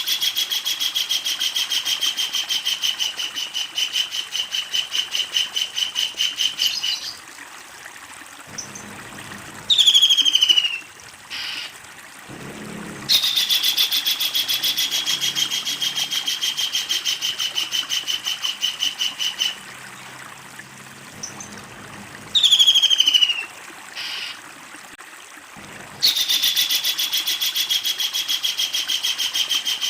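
Kingfisher giving long, rapid rattling trills of several seconds each, its loud 'ngekek panjang' cackle. Two short falling calls come between the trills.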